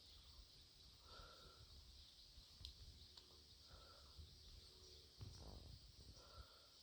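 Faint outdoor ambience: a steady high-pitched insect drone, with a short call repeating about every two and a half seconds and a low rumble underneath.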